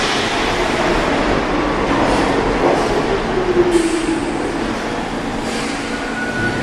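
Subway train running on the track: a steady rumble of wheels and car noise. A pitched whine falls in pitch about halfway through, and a brief higher tone comes near the end.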